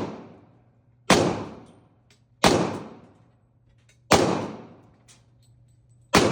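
Gunshots fired one at a time at a slow, steady pace, about one every one and a half seconds: four shots, each with a long echoing tail.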